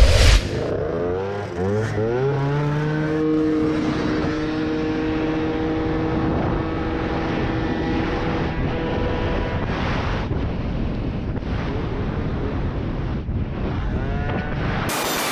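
A short loud thump, then a motor vehicle's engine speeding up, its pitch rising over about two seconds, then holding a steady note for several seconds.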